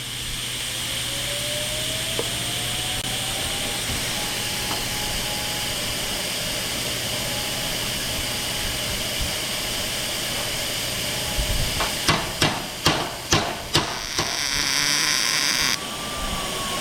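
About six sharp taps on sheet metal in quick succession, then a roughly one-second crackling hiss of a plug weld being laid. A steady hiss runs underneath.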